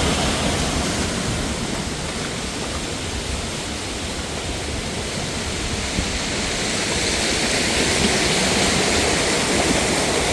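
Steady rush of water falling over rocks from a mountain waterfall, even and unbroken, growing a little louder in the second half.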